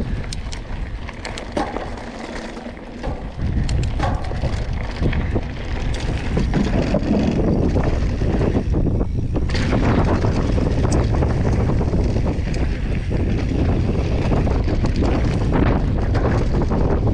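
Wind buffeting the microphone while moving at speed, jumping much louder about three seconds in and staying strong, with scattered sharp clicks and rattles over it.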